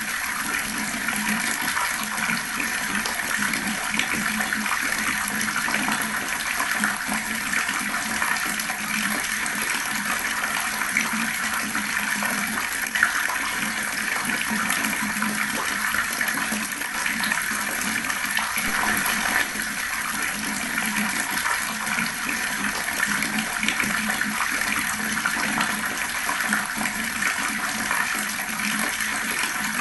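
Water running fast from a tap in a steady, unbroken rush.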